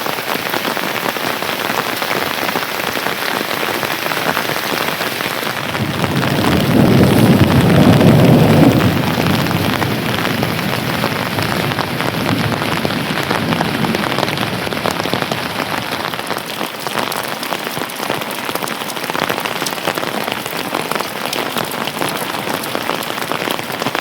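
Steady heavy rain falling, an even hiss of drops. Between about six and ten seconds in, a low rumble swells and fades beneath it.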